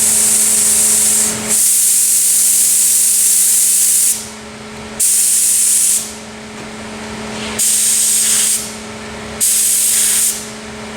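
Compressed-air paint spray gun set at about 40 psi, spraying in light strokes. Its hiss starts and stops about five times, with bursts of one to two and a half seconds, over a steady low hum.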